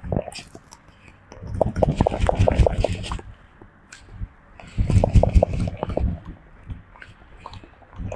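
A monkey's fingers scratching and picking through hair or skin during grooming, close to the microphone: two bursts of crackly scratching and clicking with a low rumble, about two seconds in and again about five seconds in.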